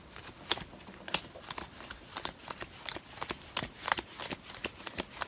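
Tarot cards being handled and sorted through by hand: a run of irregular light clicks and rustles.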